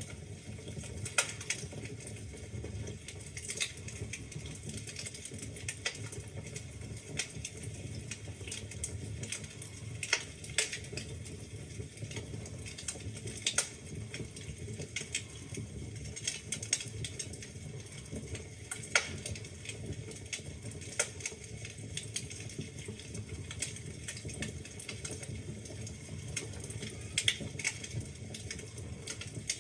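Wood fire burning in a fireplace: a steady low rumble of flames with constant irregular crackling and popping, and now and then a louder sharp crack from the burning logs.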